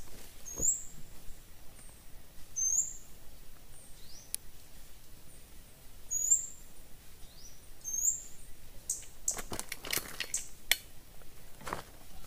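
A forest bird repeating a short, high-pitched call about every two seconds, each call a quick upward slur. Several sharp crackles come late on, like twigs or dry leaves being disturbed.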